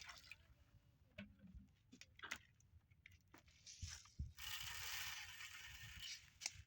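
Faint handling noises: scattered light clicks and knocks, then a rustling scrape lasting under two seconds about four and a half seconds in.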